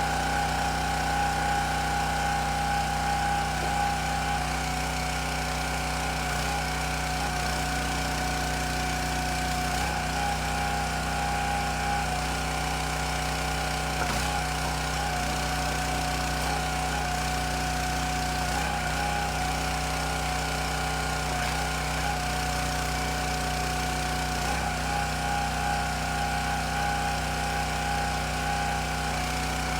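A small engine running steadily at an even speed, with a constant hum and a steady whine.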